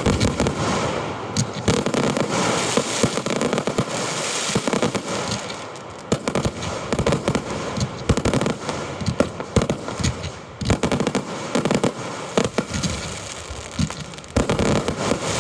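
Fireworks display heard close to the launch area: a dense, continuous run of shell launches and bursts, with sharp bangs over steady crackling.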